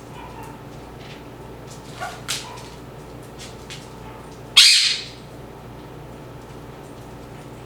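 A parrot gives one loud, harsh squawk about four and a half seconds in, after two short, quieter calls around two seconds in.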